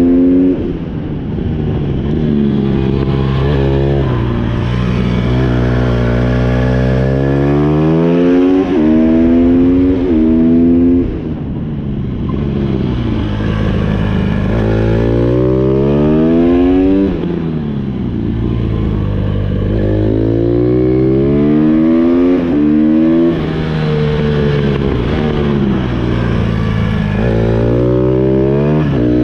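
Honda CRF150R's single-cylinder four-stroke engine revving hard. The pitch climbs, drops back at each shift, and falls away when the throttle is closed, over and over as the bike is ridden around the track.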